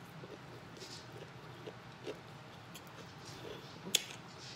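A person chewing fried chicken with the mouth open, soft wet smacking and small mouth clicks, with one sharp click near the end.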